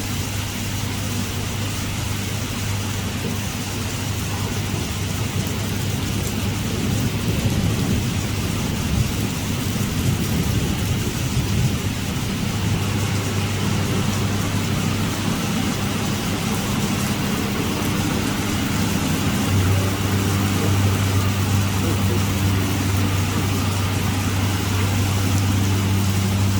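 Heavy rain pouring steadily, with a steady low hum underneath that grows stronger about two-thirds of the way in.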